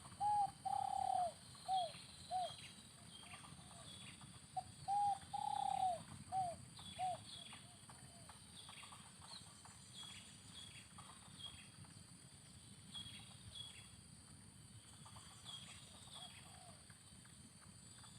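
Spotted dove cooing: two phrases of several notes each, with a longer drawn-out note in each phrase, in the first seven seconds. Thin, high, downward chirps from small birds repeat throughout.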